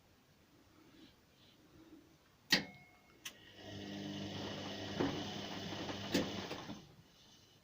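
Whirlpool WNQ66A appliance making its noise: a sharp click, then about three seconds of steady motor hum with a high whine, another couple of clicks, and it stops.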